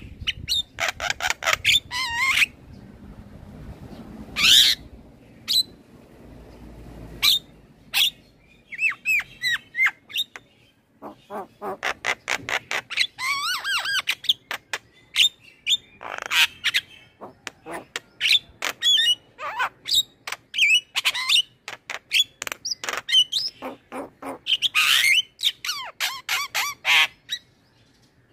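Male Javan myna (jalak kebo) in full song: phrases of rapid clicking notes mixed with gliding whistles and harsh calls, broken by short pauses.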